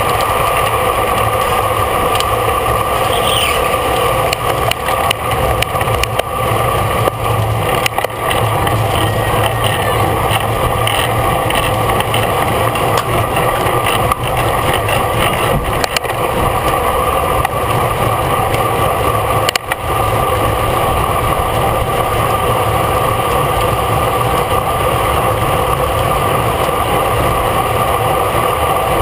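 Steady rush and drone of riding at race speed, heard through a bicycle-mounted camera, with a few faint clicks.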